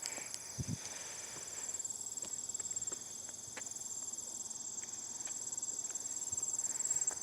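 Steady high-pitched insect chorus that pulses without letup, with scattered faint clicks and one brief low thump under a second in.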